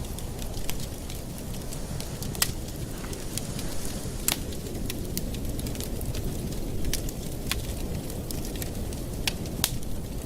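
Wood fire crackling in a fireplace: a steady low rush of burning with frequent irregular sharp pops and snaps, two of them louder, about two and a half and four seconds in.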